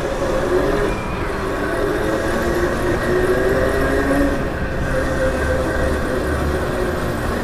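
Electric dirt bike on the move: a faint motor whine drifting in pitch over steady wind and tyre noise, with low rumble swelling for a few seconds in the second half.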